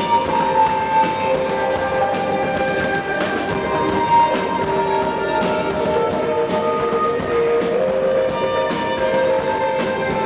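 Live instrumental band music: held melodic notes over a steady beat, with a sharp drum or cymbal hit about once a second.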